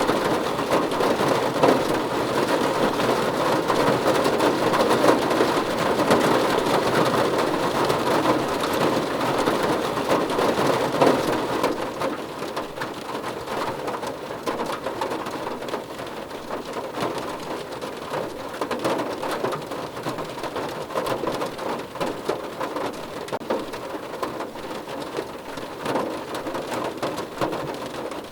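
Rain drumming on a car roof, a dense patter of drops. The downpour is heavier at first and eases to a lighter patter about 12 seconds in.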